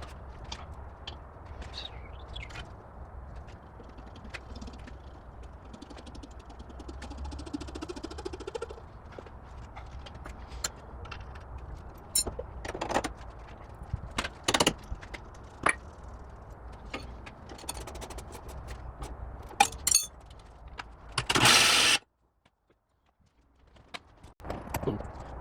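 Workshop clatter of metal tools and parts clinking and knocking at irregular intervals over a steady low hum. Near the end comes a short, loud burst of noise, followed by about two seconds of near silence.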